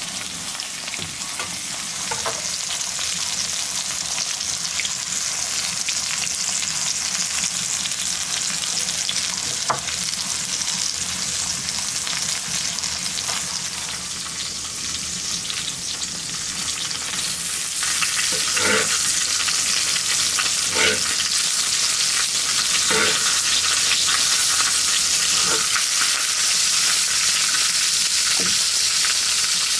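Pork steak, zucchini and tomato slices sizzling in hot oil on a clay grilling plate: a steady frying hiss that grows louder about halfway through, with a handful of sharp pops in the second half.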